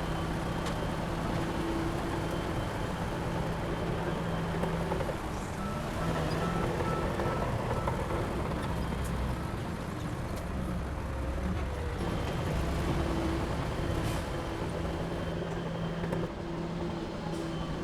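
Heavy diesel earthmoving machinery running steadily, its engine hum fading out and returning every few seconds as the load changes, with a few faint clicks.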